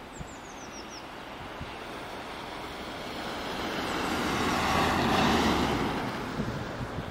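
A vehicle passing on a nearby road: its tyre and road noise swells slowly, is loudest about five seconds in, then fades.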